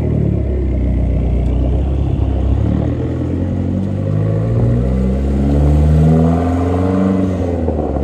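Car engine and exhaust running with a deep rumble, the engine pitch climbing steadily for several seconds and then dropping back as it eases off.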